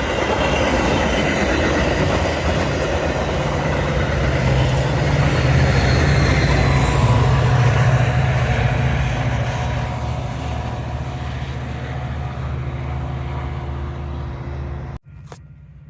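Metra commuter train passing: the cars rumble on the rails under a steady low drone, loudest in the middle and dying away over the last few seconds. The sound cuts off abruptly near the end.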